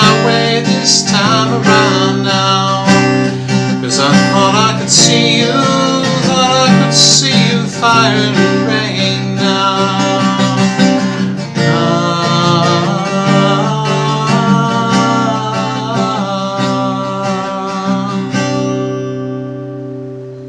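Acoustic guitar music, the closing instrumental of a folk-rock song, fading out near the end.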